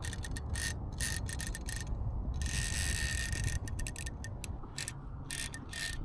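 Bait-finesse fishing reel's drag clicking in rapid runs as a hooked salmon pulls line off against it, with the longest unbroken run about two and a half seconds in.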